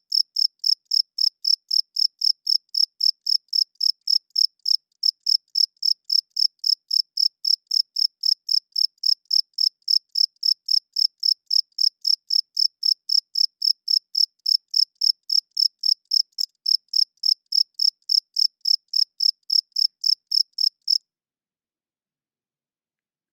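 A cricket chirping in an even rhythm of about three short, high-pitched chirps a second, stopping abruptly near the end.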